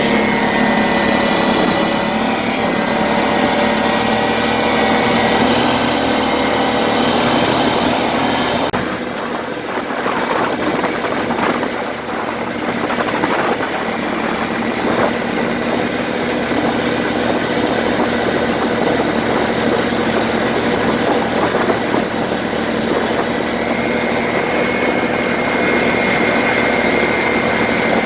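Swamp buggy's Loncin 30 hp petrol engine running steadily; about nine seconds in the sound changes abruptly to a noisier, rattling run, with a steady whine coming back near the end.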